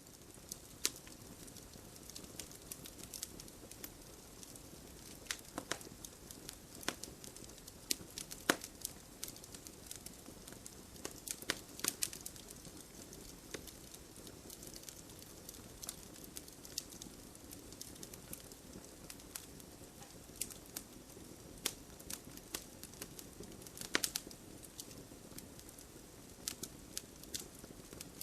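Wood fire crackling and popping: a steady low hiss of burning under irregular sharp pops, a few louder snaps standing out.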